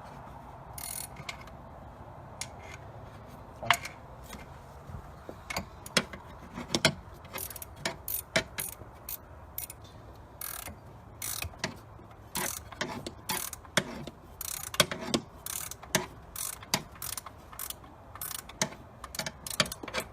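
Hand ratchet clicking in short, irregular runs as bolts are turned in, with the odd clink of metal tools. The clicks come more often in the second half.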